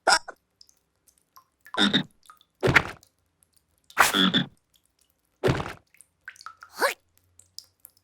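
Wordless cartoon character vocal sounds: about five short calls spaced out with pauses between them.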